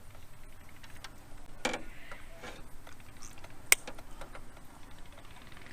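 Fishing reel ticking as line is wound in, with a few sharp clicks and knocks of handling, the sharpest just under four seconds in.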